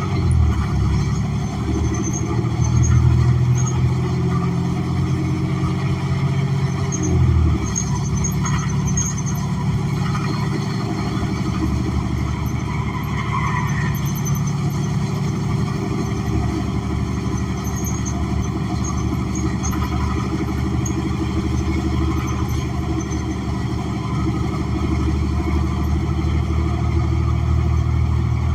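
Cummins Westport ISL G natural-gas engine of a New Flyer XN40 transit bus, heard from inside the cabin while the bus is under way. A steady engine note pulls for about seven seconds, then drops off suddenly, and the ride carries on as a steady rumble with road noise.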